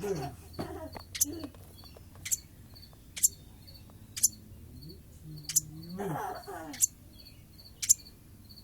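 A bird giving short, sharp, high chirps about once a second, over a steady faint cricket-like chirping pulsing about three times a second.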